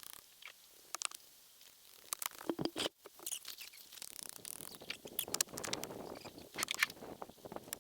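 Irregular rustling, scraping and clicking of camping gear being handled during camp setup, with a brief drop-out about three seconds in.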